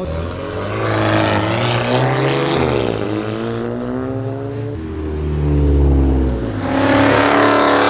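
Car engines revving and accelerating past, their pitch climbing and then dropping. A deep rumble comes about five seconds in, followed by a loud rush near the end.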